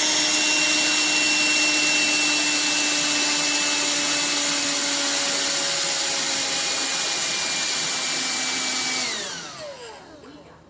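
Black+Decker Dustbuster cordless handheld vacuum running with a steady whine, then switched off about nine seconds in, its motor winding down with a falling pitch.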